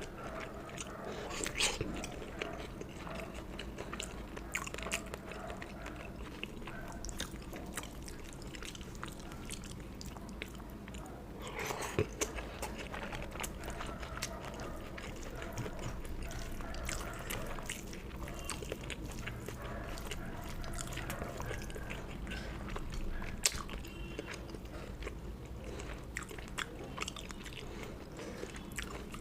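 A person chewing and eating close to the microphone, with frequent small wet clicks and smacks of the mouth and a steady low hum underneath. One sharp click stands out about three-quarters of the way through.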